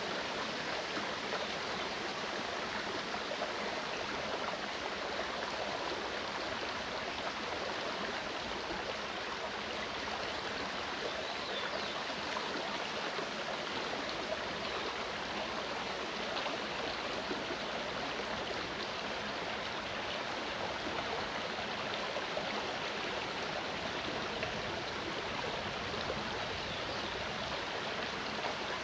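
Clear mountain stream flowing, a steady, even rush of water.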